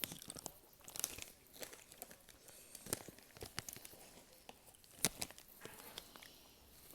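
Snack packet crinkling and crackling as it is handled, in irregular bursts with a few sharper crackles.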